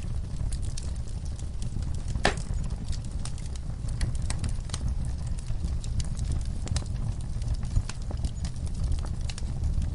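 Wood fire in a fire pit crackling, with irregular sharp pops from the burning logs and coals, one louder pop a couple of seconds in, over a steady low rumble.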